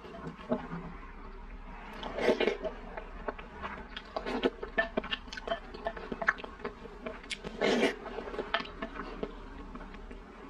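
Close-miked chewing of soft-boiled egg: many soft, wet mouth clicks and smacks, with a few louder breathy bursts about two, four and a half and seven and a half seconds in.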